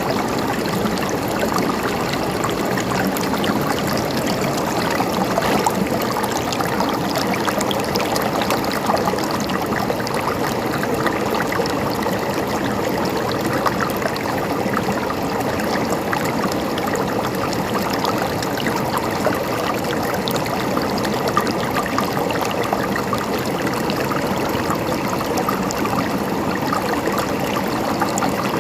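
Water of a small stream or cascade, flowing and gurgling steadily over stones.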